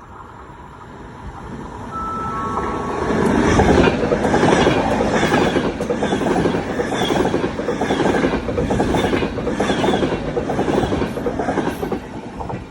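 Train passing close by on the coastal railway line. A rush of wheels on rail builds to loud within a few seconds, with regular clicks as the wheels cross rail joints, then falls away near the end.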